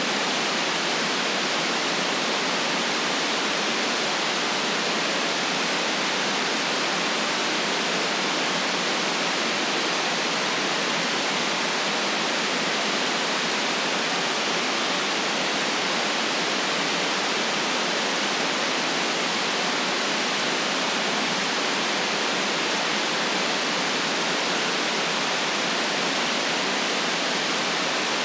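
Steady electronically generated white noise: an even hiss that never changes in level, with no deep rumble and nothing in the very top treble.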